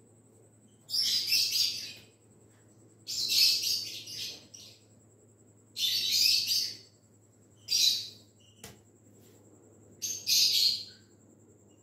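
A bird chirping in short bursts of rapid high chirps, about five bursts every two to three seconds, over a faint steady hum.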